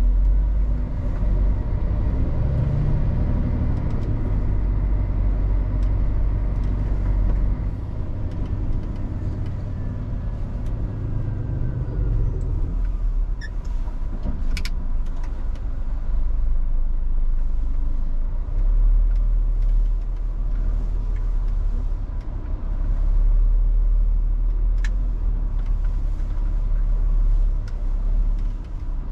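Scania R450 truck's 13-litre straight-six diesel and road noise during a drive, a heavy low rumble that eases off about twelve seconds in. A few sharp clicks come in the second half.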